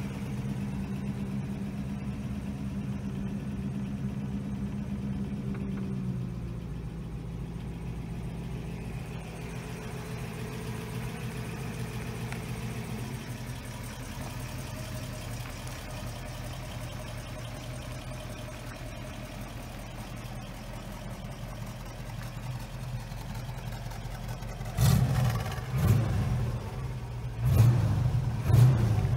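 GAZ-24-24 Volga's V8 engine idling steadily; its idle speed drops a step about six seconds in. Near the end come several loud, short surges.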